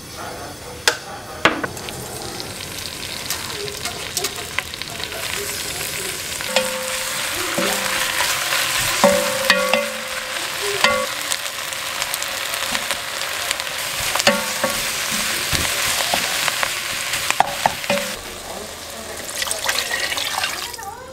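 Soaked seaweed and beef sizzling in sesame oil in a pot, stir-fried with a wooden spatula. Frequent clicks and scrapes come from the spatula against the pot.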